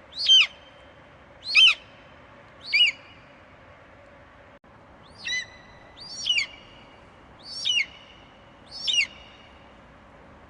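Eagle screeching: seven short, high-pitched calls, each falling in pitch. Three come about a second apart, then after a pause of two seconds or so, four more at the same pace, over a faint steady hum.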